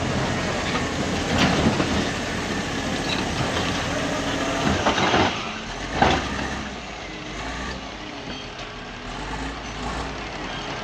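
Heavy diesel engine of quarry machinery running steadily, with a few loud noisy surges about a second and a half in, around five seconds and just after six seconds, then quieter.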